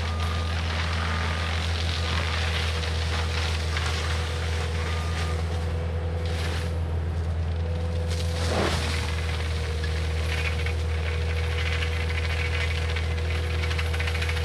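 Diesel engine of a Cat 259D compact track loader running steadily at working speed with a constant hum and whine, a backup alarm beeping in the first few seconds. A single sharp crack about eight and a half seconds in, with rattling.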